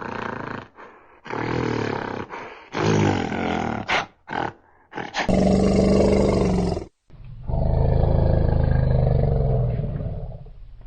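A large animal roaring: a run of short calls, then two long drawn-out roars about five and seven seconds in.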